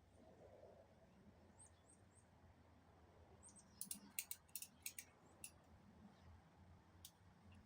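Near silence with a few faint high chirps early on and a scattered run of light, sharp clicks about halfway through, with one more click near the end.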